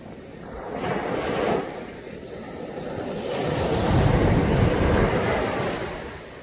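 Caribbean sea waves breaking and washing up a beach: a small surge about a second in, then a bigger wave building from about three seconds, loudest around four to five seconds, and fading away near the end.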